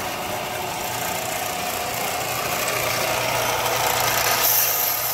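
Electric power sander running steadily, its abrasive rasping against the knife handle as the sides are sanded down.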